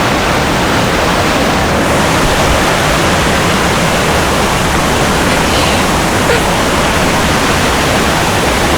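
Waterfall: rushing, splashing water close by, heard as a loud, steady, unbroken hiss that covers both low and high pitches.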